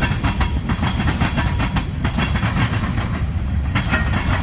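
Freight train tank cars rolling past: a steady heavy rumble of steel wheels on rail, with a rapid clatter of clicks as the wheels cross rail joints.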